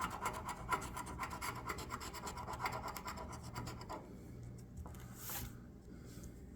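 Scratch-off lottery ticket being scratched with quick, rapid strokes for about four seconds, then lighter, sparser scratching.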